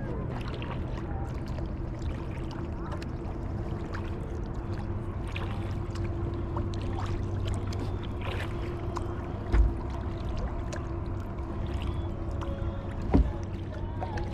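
Kayak paddling: a steady run of small splashes and drips as the paddle blades dip and lift from the water, over a constant low hum. Two dull thumps, about nine and a half and thirteen seconds in, stand out as the loudest sounds.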